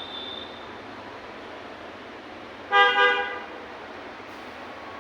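A vehicle horn sounds two short honks in quick succession, over a steady background hiss.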